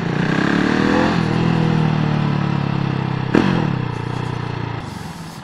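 KTM Duke 690's single-cylinder engine through a Hurric Pro 2 exhaust with its dB-killer baffles fitted, pulling at low speed. The note rises about half a second in, holds steady, changes briefly just past three seconds in, then falls away and gets quieter near the end as the bike slows.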